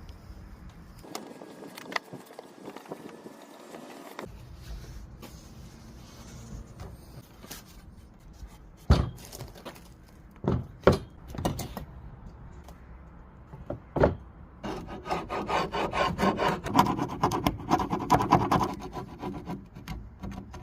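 Rhythmic rubbing strokes on the wood of a vintage table, about three a second, starting about three-quarters of the way through, as in hand sanding or rasping the surface. A few sharp knocks come before them, in the middle.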